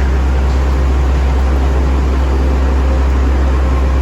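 Steady low engine rumble of a train standing at the station, with an even hiss over it.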